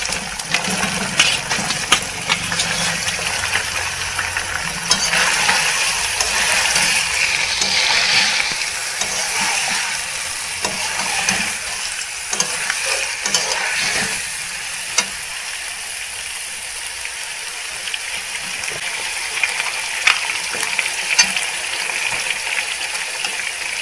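Raw catfish pieces sizzling in hot mustard oil and spice paste in a metal kadai, with a metal spatula scraping and knocking against the pan as they are stirred. The sizzle swells for a few seconds about five seconds in.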